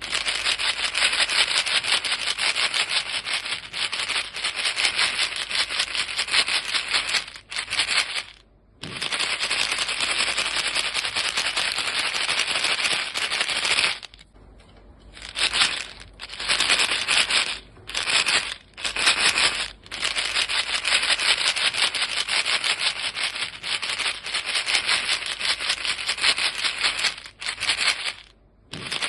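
A box of chewing gum pellets shaken steadily, the gums rattling fast against the box. There are a few short pauses, the longest about halfway through.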